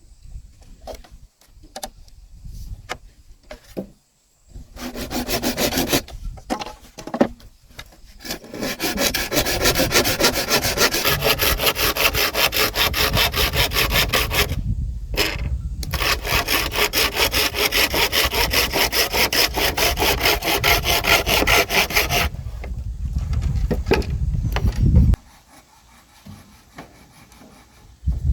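Hand saw cutting wood with quick, even back-and-forth strokes. It starts after a few seconds of light knocks and scrapes, breaks off briefly about halfway, and stops a few seconds before the end.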